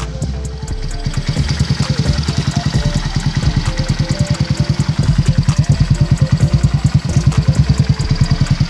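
Honda CG150 single-cylinder four-stroke engine in a Honda Dio scooter, idling with a steady, rapid putter.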